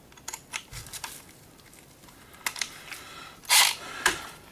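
Scattered clicks and light knocks of hand tools and metal parts being handled while a coffee grinder is dismantled, with a short, louder scrape about three and a half seconds in and a sharp click just after.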